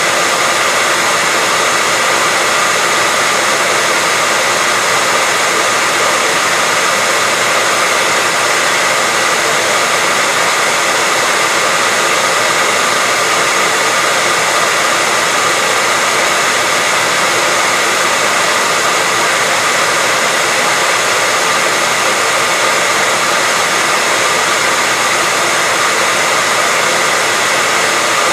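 Hair dryer running steadily: an even, unchanging rush of air noise with a faint steady whine from the motor.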